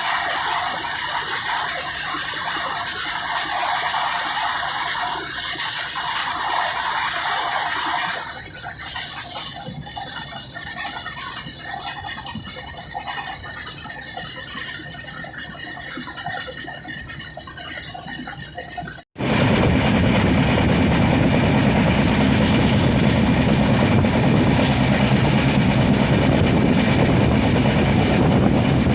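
A steady, high hiss-like noise. After a sudden cut about nineteen seconds in, a passenger train is heard running along the track, louder and deeper.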